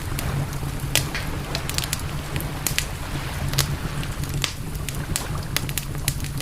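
Wood campfire crackling, with irregular sharp pops several times a second, over a steady low rumble.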